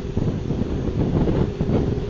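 Wind buffeting the microphone in an irregular low rumble, with a faint steady hum underneath.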